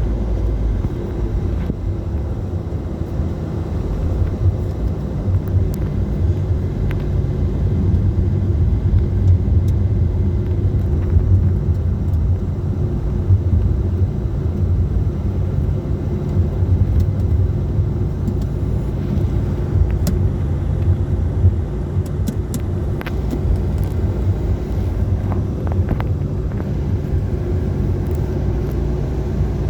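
Steady road-vehicle rumble: engine and tyre noise on the highway, even throughout with no distinct pass-bys.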